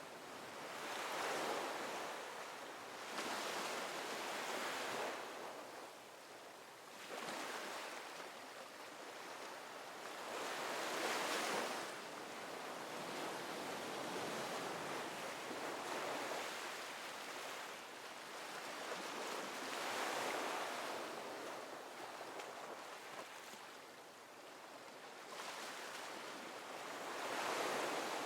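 Ocean surf: waves breaking and washing in, the hiss swelling and falling away every few seconds.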